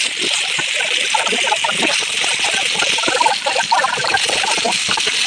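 Sliced onions and chopped tomatoes sizzling in hot oil in a frying pan: a steady frying hiss with constant small crackles.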